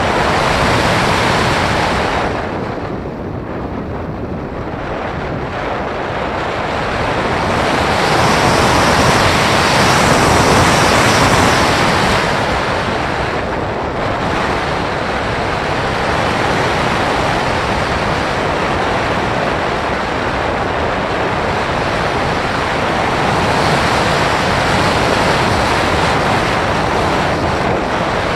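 Wind rushing over the microphone of a camera carried aloft on a Bird of Time radio-controlled sailplane in gliding flight, with no motor heard. The rush dips a few seconds in, swells strongest around the middle, then holds steady.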